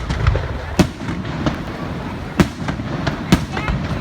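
Fireworks going off: a continuous rumble of distant bursts with sharp nearer bangs, the loudest about a second in, in the middle and near the end.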